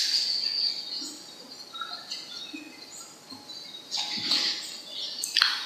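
Birds chirping: clusters of short, high calls at the start, around four seconds in and strongest near the end, with fainter scattered chirps between.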